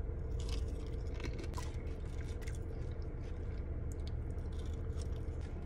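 A person chewing a mouthful of loaded fries topped with fried chicken, bacon and ranch, with small irregular wet crunches and smacks. A steady low hum runs underneath.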